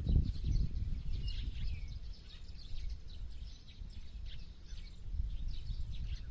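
Small birds chirping and twittering: many short, high calls, some sliding down in pitch. Beneath them runs a low, uneven rumble that eases off in the middle and picks up again near the end.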